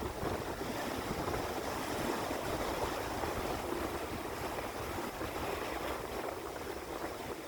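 Steady rushing of sea water, waves washing without distinct breaks, over a low rumble.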